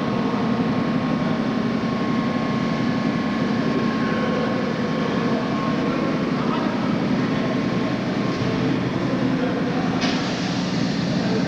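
New York City subway train running on the tracks: a steady rumble of wheels and motors with a faint high tone in the first half, and a burst of brighter, hissier noise about ten seconds in.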